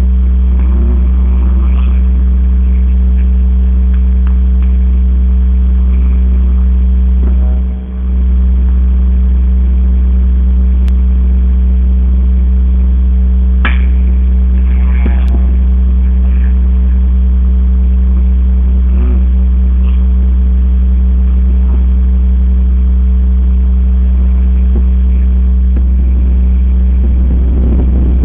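A loud, steady low hum with a constant pitch and no change in level. Faint distant voices sit under it, and there is one sharp click about fourteen seconds in.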